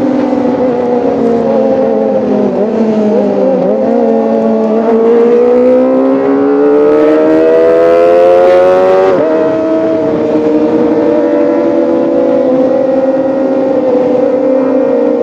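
Kawasaki ZX-25R's 250 cc inline-four engine running at high revs: its pitch sags over the first few seconds, then climbs steadily for about five seconds, drops suddenly about nine seconds in, and holds steady after that.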